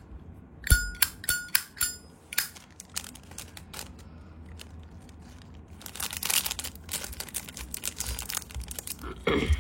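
Zippo lighter lid flicked open and snapped shut several times, a quick run of sharp metallic clicks each with a short bright ring, about a second in. Some seconds later comes a stretch of rustling handling noise.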